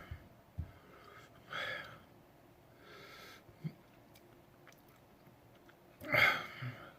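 A man breathing out heavily through his mouth three times, the last breath the loudest near the end, with small mouth clicks in between, as he copes with the burn of a superhot pepper.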